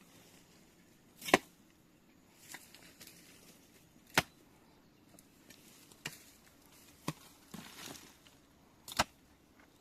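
Hand digging tool striking into the ground in slow, separate blows, one every two to three seconds, with a softer scrape of soil between.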